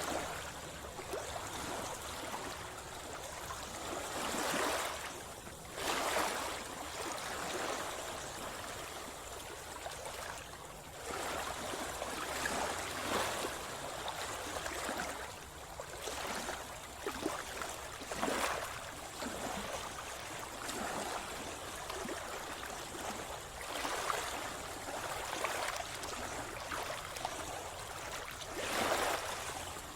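Sea water splashing and sloshing close at hand over a steady wash, swelling in irregular surges every second or two.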